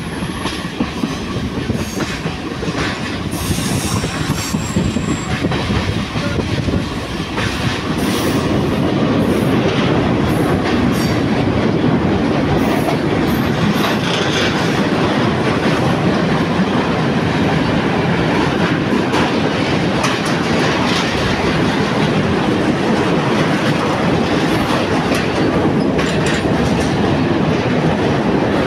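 Ride noise at the open door of a moving Class S11 diesel multiple unit: wheels clacking over rail joints above a steady rumble. The rumble grows louder about eight seconds in, with the train running over a steel truss bridge.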